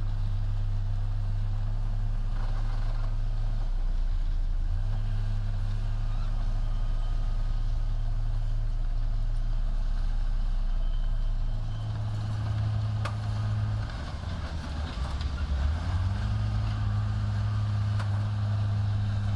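Heavy diesel engine of an earthmoving machine running steadily under load. It shifts pitch briefly about four seconds in, then dips and turns rougher for a few seconds in the second half before settling back.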